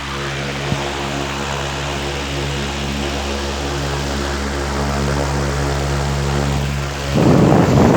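Ventisilva 65 cm pedestal fan running, a steady motor hum under the rush of moving air. A little before the end the air noise turns suddenly louder and rougher.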